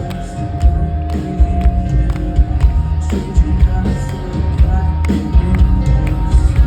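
Live rock band playing loud in a concert hall, with heavy bass, steady drum hits and sustained guitar tones.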